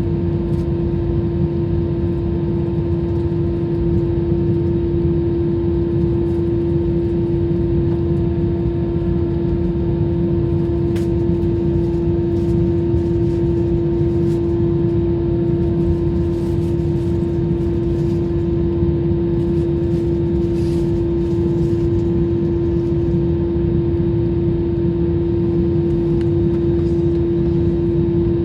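Airliner cabin noise in flight: the jet engines and airflow give a steady rumble under a constant hum.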